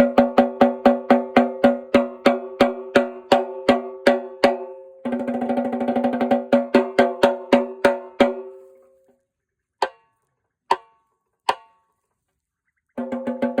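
A snare drum played solo, its strokes ringing with a clear pitched tone. It starts with even single strokes at about three a second, then a faster roll that fades out. Three lone lighter hits follow, and playing picks up again near the end.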